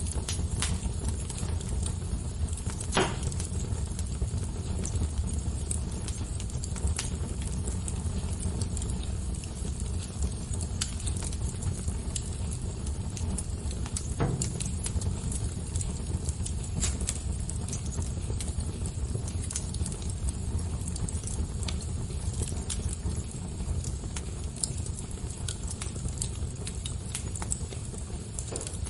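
Crackling fire: scattered sharp pops and snaps over a steady low rush of flames, with two louder pops about three seconds in and about fourteen seconds in.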